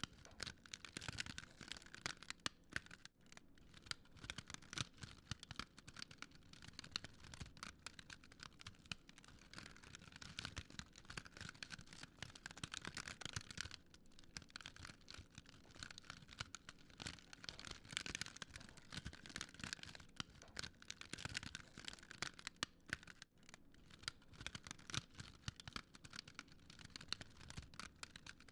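Wood fire crackling faintly, a dense continuous run of small snaps and pops over a soft hiss.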